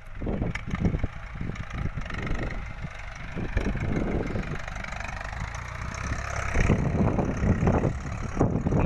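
Ford 6600 tractor's three-cylinder diesel engine running steadily under field work, a little louder in the last couple of seconds.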